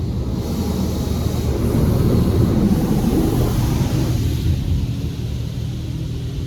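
High-pressure water jets of a PDQ LaserWash 360 Plus touchless car wash blasting the car, heard from inside the cabin as a dense rush of spray. It is loudest about two to three seconds in and eases after about four seconds, leaving a steady low hum.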